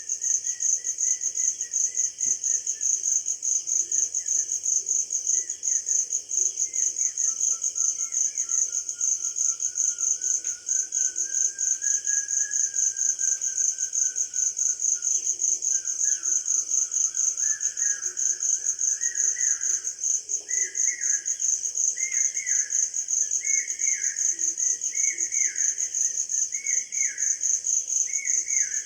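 Steady, high, fast-pulsing insect trill of the cricket kind, with a songbird singing over it; from about two-thirds of the way in, the bird repeats a short downward phrase about once every second and a half.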